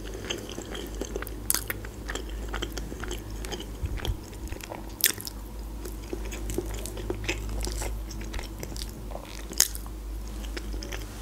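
Close-miked chewing of soft fried chicken liver and mashed potato: wet mouth clicks and smacks at an uneven pace, a few of them sharper and louder, over a steady low hum.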